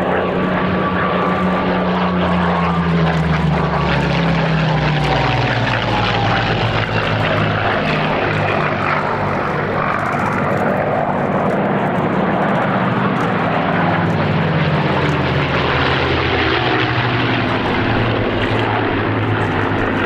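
Propeller aircraft engines running loudly as the aircraft fly past, their pitch falling as they pass, with a second pass later on.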